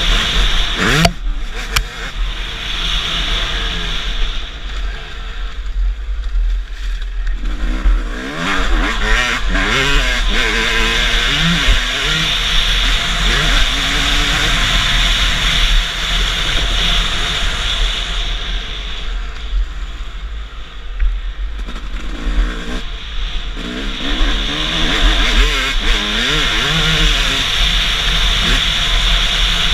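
Motocross bike engine revving up and down as it rides, its pitch rising and falling again and again over a steady rushing noise.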